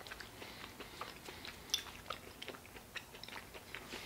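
A person chewing a bite of fried, crispy-crusted chicken pot pie with the mouth closed: faint, irregular small crunches and clicks.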